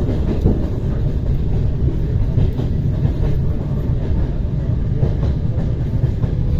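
ER9T electric multiple unit running on the rails: a steady, low wheel-and-rail rumble with faint clicks from the track.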